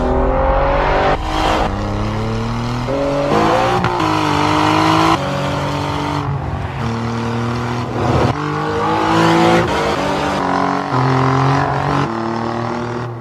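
2016 Alfa Romeo Giulia Quadrifoglio's twin-turbo V6 engine revving hard, its note jumping abruptly every second or two, with a few rising revs, mixed with tyre noise as the car slides through a corner.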